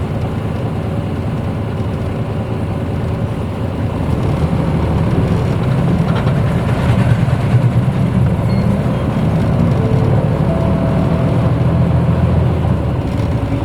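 1994 Hino Blue Ribbon U-HT2MPAA city bus engine and road noise heard from inside the cabin, a steady low drone that grows louder about four seconds in as the bus pulls harder.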